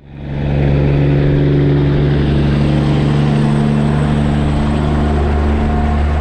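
Heavy truck's diesel engine running at a steady speed: a low, even drone that fades in over the first half second.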